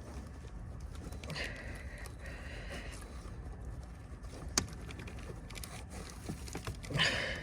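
Hands working at a coolant hose and its plastic clip in the engine bay: faint scraping and small clicks over a low background rumble, with one sharp click about four and a half seconds in and a louder rustling burst near the end.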